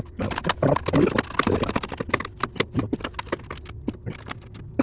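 Hand tools and metal parts clicking and knocking irregularly during work on the Jeep's steering linkage, some sharp, some duller.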